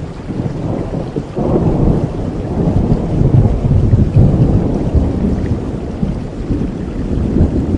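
Thunder rumbling over steady rain in a thunderstorm, swelling about a second and a half in and easing off near the end.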